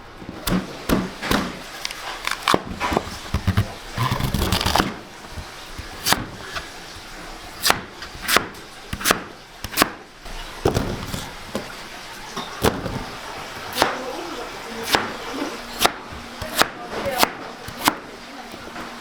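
Irregular sharp knocks and clacks of hands-on kitchen work, roughly one or two a second, with a denser scraping clatter about four seconds in.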